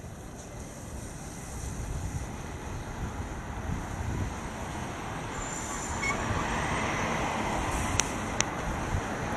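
Bicycle ride on a wet street: a low rumble of wind on the microphone and a hiss of tyres on wet road that grows louder after about six seconds, with two sharp clicks near the end.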